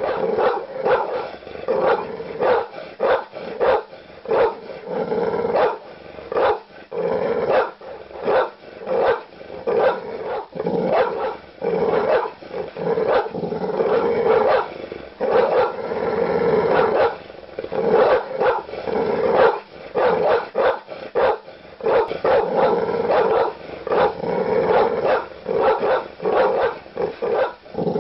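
Large dog barking aggressively, deep barks coming in rapid runs of several a second with short breaks between runs.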